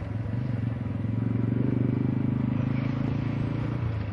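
Vehicle engine running steadily with a fast, even pulse, getting a little louder through the middle and easing back near the end.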